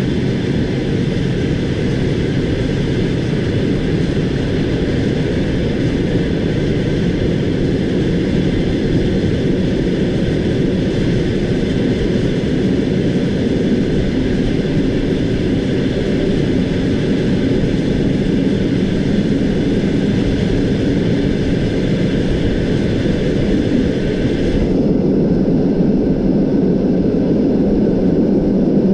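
Steady running noise of a moving train, its wheels rumbling on the track. A higher hiss over the rumble cuts off suddenly near the end, and the rumble goes on.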